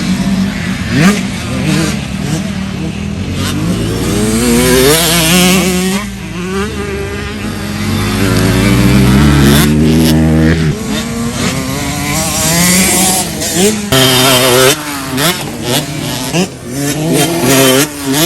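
Motocross dirt bikes revving on a track, the engine pitch climbing and dropping over and over as the riders accelerate and back off.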